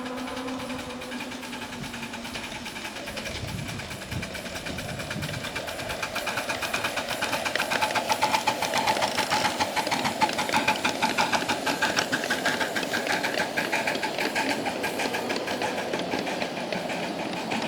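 Live steam Allen ten-wheeler scale locomotive under way, its exhaust chuffing in a rapid, even beat. The beat grows louder from about six seconds in.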